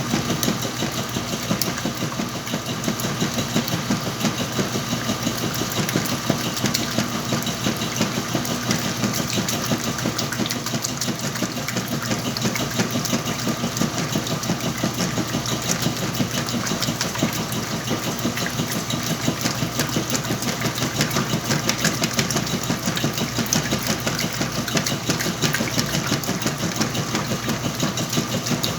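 Whirlpool washing machine running steadily with a load of blankets: a constant motor hum under a dense, noisy clatter.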